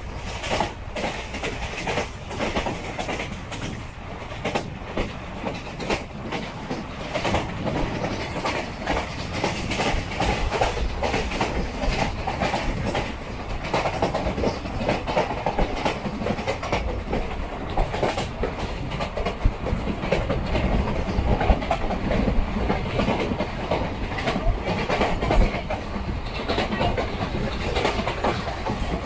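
Second-class coach of the 16160 Mangalore–Chennai Egmore Express running at speed, heard from an open window seat: wheels click over the rail joints again and again over a steady running noise of the train.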